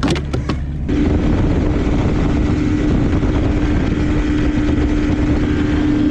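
Motor of a 50-year-old bass boat running steadily with the boat underway, a steady hum over rushing wind and water. A few knocks come in the first half second, then about a second in the sound jumps louder and holds steady.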